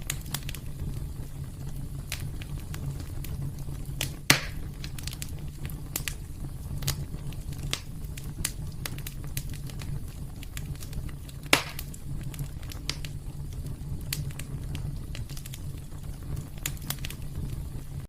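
Wood fire crackling in a fireplace, with frequent small crackles and two louder pops, about four seconds in and again near the middle, over a steady low rumble.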